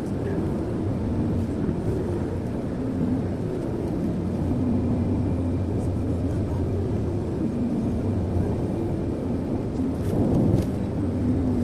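Steady low road and engine noise inside a moving car's cabin, with a couple of faint clicks about ten seconds in.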